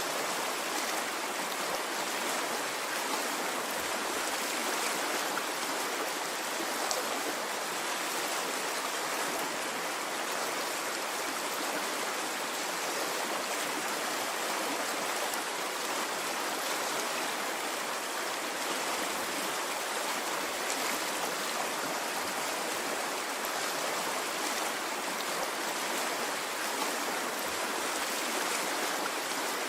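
A stream of water flowing steadily, an even rushing sound with no swells or breaks.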